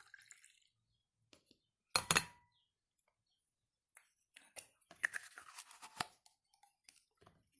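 A canary drinker being handled after filling with beet juice: one sharp clink with a short ring about two seconds in, then a scattered run of small clicks and rattles.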